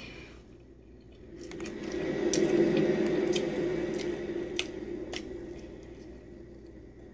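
Close-up biting and chewing of a crispy pizza crust, with a few sharp crunches. A low rumble swells up about a second and a half in and fades toward the end.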